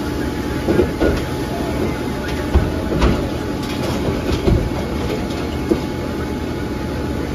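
Fireworks going off in a burning shop: about half a dozen sharp bangs at irregular intervals over a steady rumble with a constant hum.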